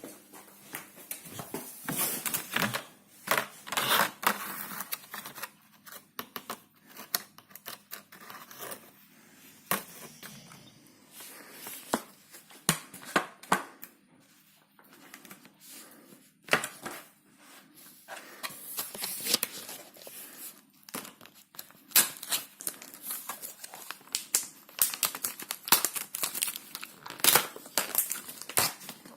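Plastic packaging crinkling and tearing in irregular bursts, with sharp clicks and rustles as a new dishwasher freshener is unwrapped. There is a quieter pause about halfway through.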